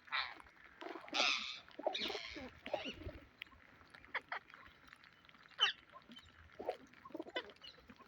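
Pet Psittacula parakeet calling: two harsh squawks about one and two seconds in, then scattered short chirps and quick whistled sweeps.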